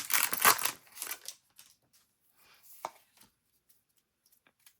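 Foil booster pack wrapper crinkling and tearing for about a second, followed by a few faint clicks and taps of cards being handled.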